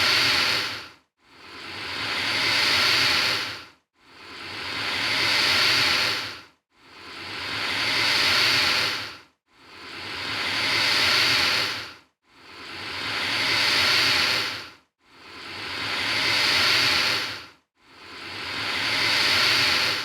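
Alligator hissing, one long breathy hiss after another at an even pace, about every three seconds. Each hiss swells over about two and a half seconds and then stops abruptly, with a short silence before the next.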